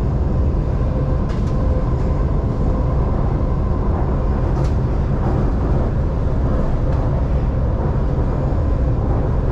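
Shanghai Metro Line 2 train running steadily between stations, heard from inside the car: a continuous low rumble of wheels on rail with a faint steady hum, and a few light clicks.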